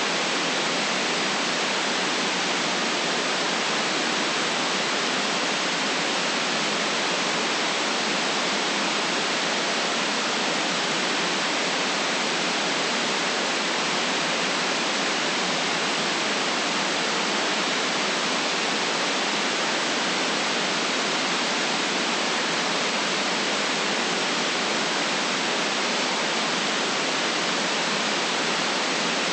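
Synthetic white noise: a steady, even hiss that never changes, with no deep rumble and no separate sounds in it.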